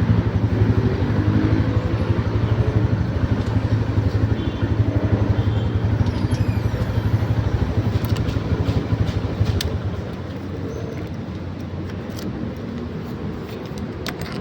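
An engine running with a fast, steady low throb that drops in level about ten seconds in, with a few light clicks in the second half.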